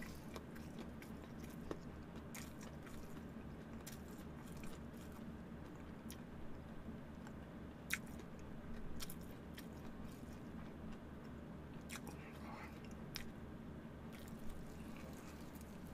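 Close-up eating of crispy fried chicken: chewing, with scattered sharp crunches and mouth clicks from the fried batter. A steady low hum sits underneath.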